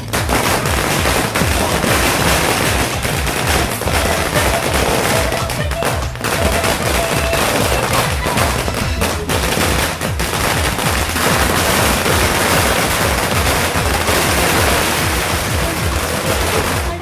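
Diwali firecrackers going off in a dense, rapid volley of bangs, with brief lulls about six and ten seconds in.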